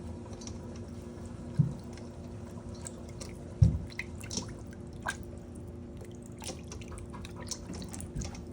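Wet eating sounds: scattered small mouth clicks and smacks, with a couple of louder low thumps, over a steady low hum.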